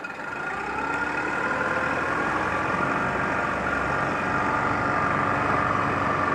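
2004 Yamaha 25 hp four-stroke two-cylinder outboard running in gear in reverse. The engine picks up and grows louder about half a second in, then holds a steady speed.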